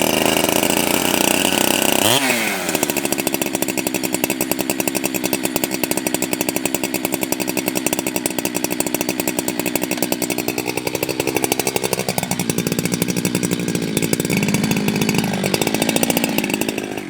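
Ported Jonsered 2165 two-stroke chainsaw, freshly started after a week unused, running at a fast idle and then dropping to a steady lower idle about two seconds in. The speed wavers slightly a couple of times as it warms up.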